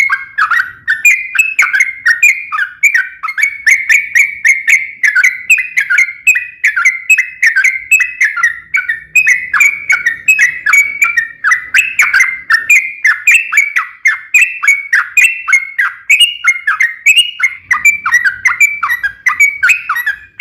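Yellow-vented bulbul (trucuk) singing a long unbroken run of quick, loud chattering notes, about four to five a second.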